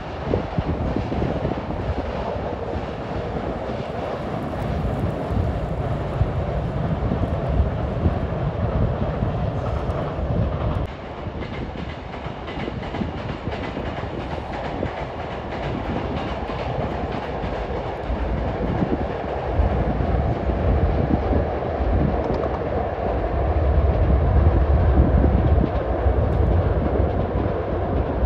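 Hankyu electric train running across a long steel truss railway bridge: a steady rumble with rapid clatter of wheels on the rails. It grows louder a few seconds before the end.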